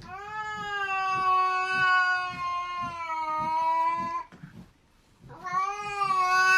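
A cat yowling: one long drawn-out call of about four seconds, then after a short pause a second long call begins near the end.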